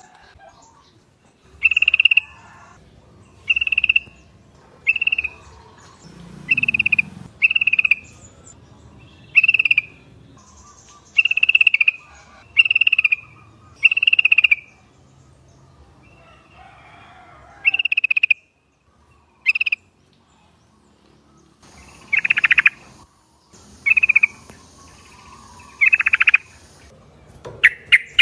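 Yellow-vented bulbuls (trucuk) calling: short chirps repeated about once a second, with a brief pause midway and a few longer, stronger calls near the end.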